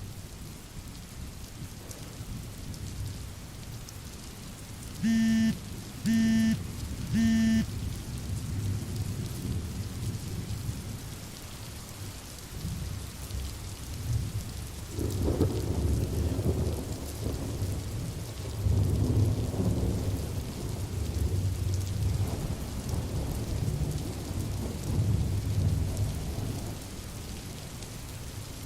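Steady rain with thunder rumbling low from about halfway through. About five seconds in, three short, loud beeps come about a second apart.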